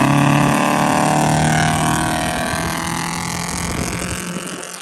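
Straight-piped Honda Accord exhaust running loud, the engine note sinking slowly as the revs come down, then fading away near the end.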